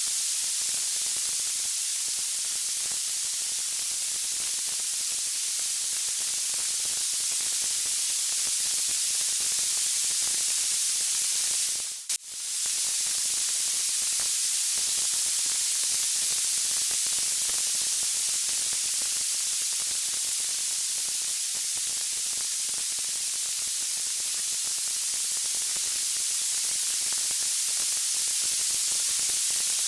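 Steady white-noise hiss, bright and even, with a brief dip in level about twelve seconds in.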